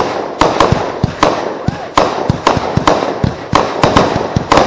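Two AFW Solar Rain 500-gram, 52-shot firework cakes firing together at a fast, Gatling-gun pace: sharp shot reports about three or four a second, with crackling between them.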